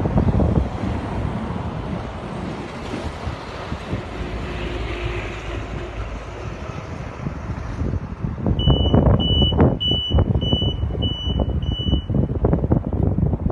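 Low rumble of wind on the microphone and road noise, growing louder in the last third; then a vehicle's reversing alarm beeps six times in a steady rhythm, a little under two beeps a second.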